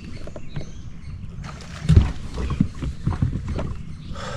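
Irregular knocks, thumps and rustling as a just-landed crappie is handled on a kayak, with the loudest thump about two seconds in.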